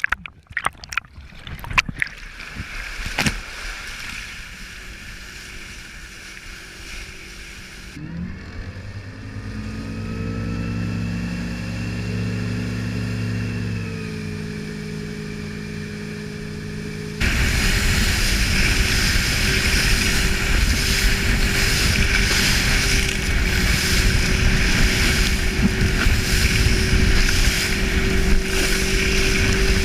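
Several sharp knocks first. Then a motorboat engine starts, its pitch rising and holding as it idles. Then comes a sudden cut to the boat running fast, the engine drowned in loud rushing wind and water noise on the microphone.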